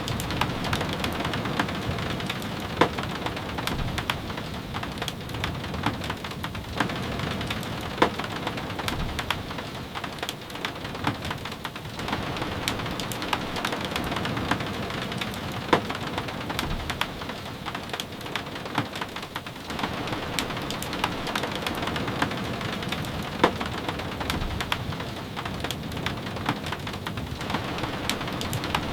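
Steady rain falling on a wooden cabin and tapping against its windows. The even hiss is dotted with many small sharp taps and a few louder clicks.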